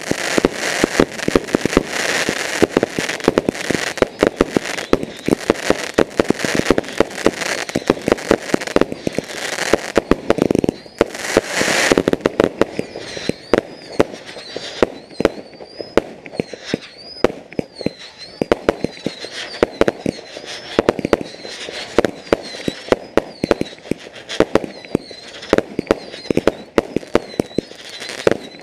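Fireworks going off: a rapid, dense run of bangs and crackles for the first twelve seconds or so, then sharper separate bangs with a high tone rising and falling over and over, about once a second.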